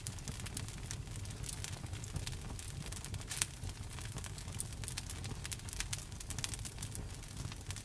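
Wood fire burning, crackling with a steady patter of small pops and one sharper pop a little over three seconds in, over a low rumble.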